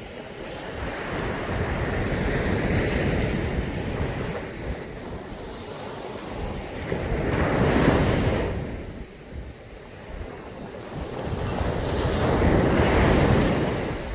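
Caribbean Sea surf breaking on a beach, swelling and washing back about every five seconds, with wind buffeting the microphone.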